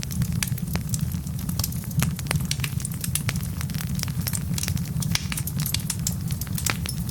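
Wood log fire crackling, with dense quick pops and snaps over a steady low rumble of the burning logs.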